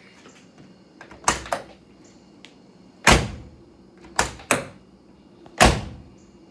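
1968 Saab 95's car door being opened and shut twice: a pair of latch clicks, then a heavy slam, repeated, the slams the loudest. This is the good door, shutting without the gong-like rattle of the faulty one.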